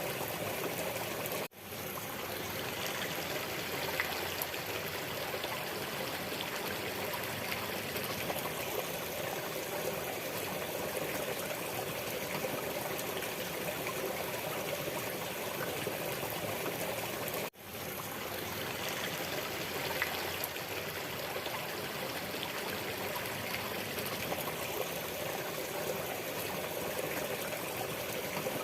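Waterfall: steady rushing, splashing water. It cuts out for a split second twice, about a second and a half in and again about seventeen seconds in, then comes straight back.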